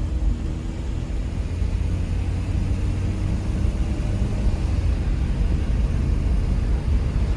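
Steady low rumble of a moving vehicle, growing slightly louder.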